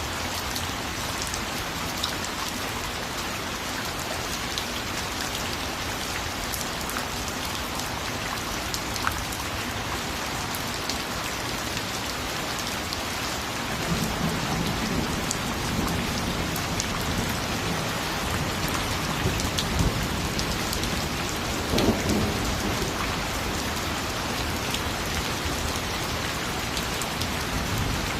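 Steady heavy rain pattering on a surface, with a low rumble of thunder swelling up about halfway through and peaking near the end.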